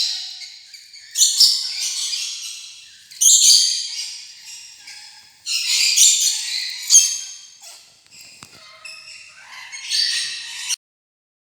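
Rainbow lorikeet chatter: harsh, high-pitched screeching squawks come in bursts about every two seconds. Each burst fades before the next, and the sound cuts off suddenly near the end.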